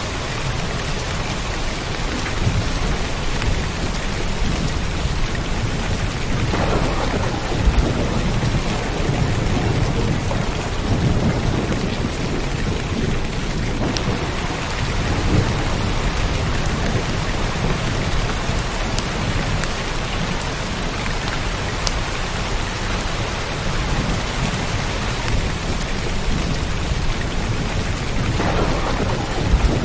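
Steady rain falling, with a low rumble of thunder underneath and a few sharp drop ticks.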